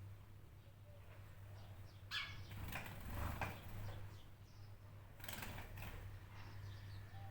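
Birds calling faintly over a steady low hum, with two spells of short rustling noises, the first about two seconds in and the second about five seconds in.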